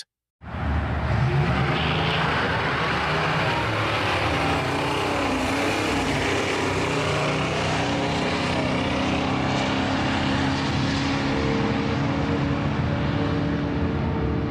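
American muscle car's V8 engine running under power, a loud, steady exhaust note that starts abruptly just after a brief silence.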